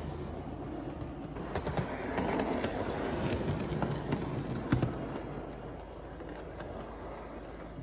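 Model SD45 diesel locomotive running on layout track, its motor and gears whirring with scattered clicks from the wheels on the rails, getting louder about a second and a half in and fading away over the last few seconds.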